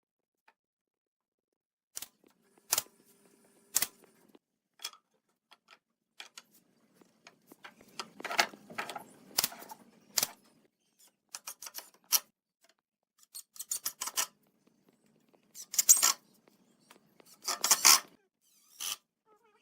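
Irregular sharp clicks and knocks from hand work with tools and wood, mixed with short scraping strokes, after about two seconds of quiet.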